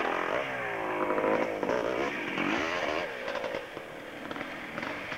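Motorcycle engine revving hard, its pitch rising and falling several times as the throttle is worked, then getting quieter and weaker after about three seconds.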